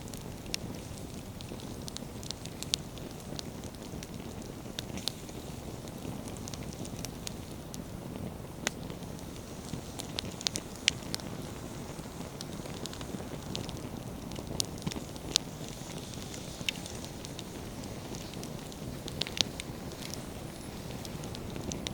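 Wood fire burning with a steady low rush of flames and frequent sharp crackles and pops from the firewood, a few louder snaps scattered through.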